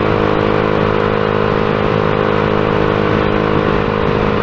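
Small Shineray motorcycle engine running at a steady speed while being ridden, its note holding level without revving up or down.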